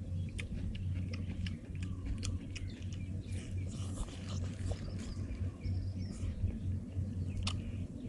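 Person eating a deep-fried chicken drumstick: biting into it and chewing, with many small mouth clicks and crackles, over a steady low hum.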